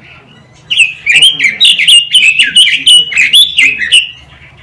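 A quế lâm songbird singing a fast, varied phrase of loud whistled and chirping notes, starting about a second in and breaking off near the end.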